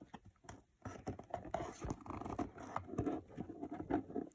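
Double-layered cardboard being cut in a curve, irregular crunching and scraping after a short quiet start.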